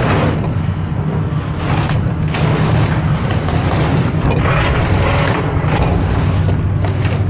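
A vehicle engine running steadily, with gusts of wind buffeting the microphone.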